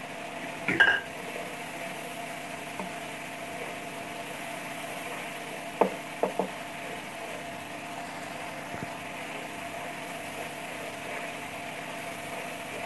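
Spiced onion-tomato masala sizzling in oil in a wok as it is fried. A spatula clatters against the pan once about a second in, then knocks on it three times in quick succession around six seconds in.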